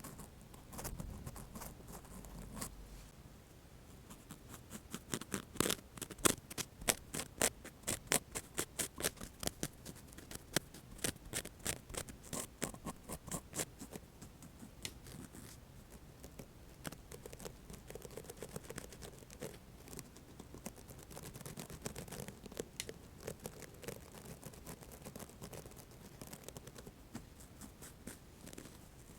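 Cotton swabs scratching and brushing in quick crisp strokes. The strokes are dense and loudest from about five to fourteen seconds in, then turn softer and sparser.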